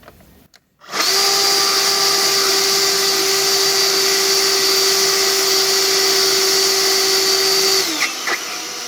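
EGO LB4800 cordless leaf blower running on a cheap aftermarket BLDC controller, coming up to full speed almost at once with little soft start, then running steadily with a high whine over the air rush. Near the end the whine stops and it drops to a lower, weaker rush.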